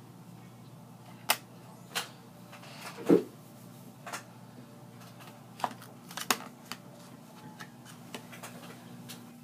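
Small objects being handled: a scattered series of sharp clicks and taps, with one louder, duller knock about three seconds in, over a low steady hum.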